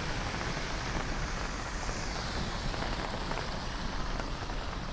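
Steady hiss of a wet city street: rain falling and traffic passing.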